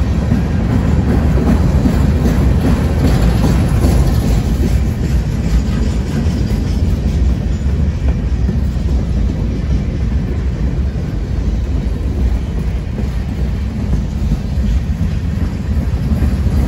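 Freight cars of a mixed freight train rolling past close by, their steel wheels on the rails making a steady, loud rumble with a light clickety-clack.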